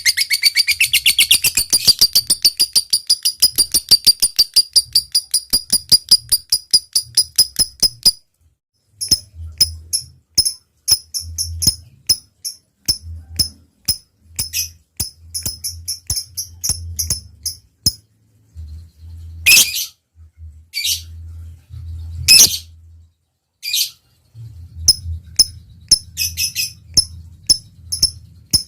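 Lovebird ngekek: a long, fast, rattling trill of high chirps, about eight a second, that stops abruptly about eight seconds in. It is followed by scattered single chirps and ticks, with two louder calls about twenty and twenty-two seconds in.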